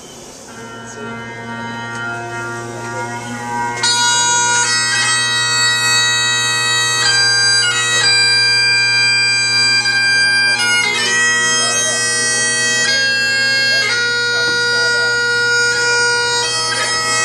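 Bagpipes playing: a steady low drone sounds first, then the chanter melody comes in loudly about four seconds in, moving in held notes over the drone.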